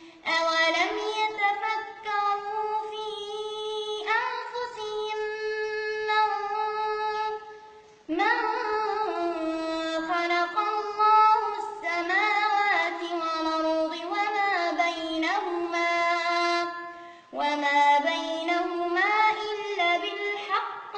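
A child's high voice reciting the Quran in melodic tartil, unaccompanied. It holds long, drawn-out, ornamented notes in three phrases, pausing briefly for breath twice.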